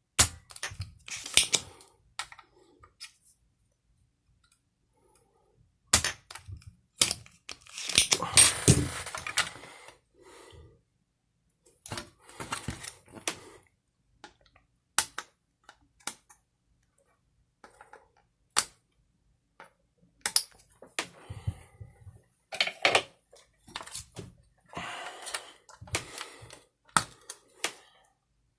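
Irregular clicks, taps and short rattles of small hard parts and tools being handled, with brief silent pauses between them.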